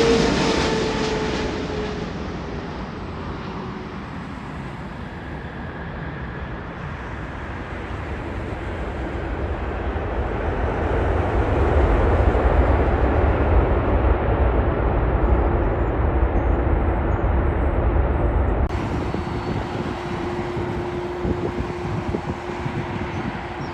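Boeing 777-300ER's GE90 turbofan engines as the jet passes on its landing approach: loud at first, with a whine falling in pitch as it goes by, then a deep rumble that swells again in the middle and lingers.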